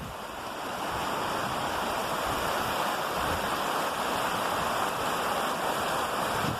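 Waterfall water rushing, a steady even roar of falling water.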